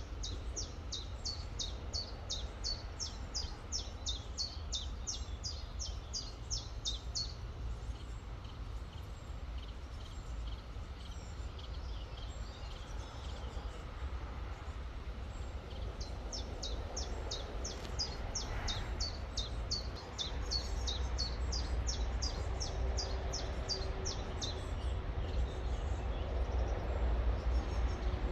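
A small songbird singing a long series of quick, high, downward-slurred notes, about three a second, in two bouts, the second starting a little past halfway. Underneath runs a steady rush of river water with a low rumble.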